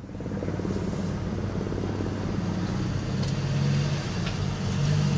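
Helicopter overhead: a steady low rumble with a fast, even flutter from the rotor.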